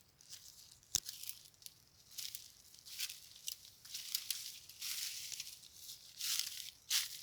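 Footsteps crunching and crackling through dry leaves and brittle brush, a step about once a second, with one sharp click about a second in.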